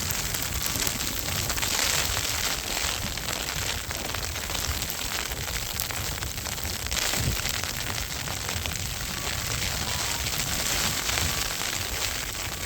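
Strong blizzard wind rushing and buffeting against the microphone, with a steady hiss of wind-driven snow.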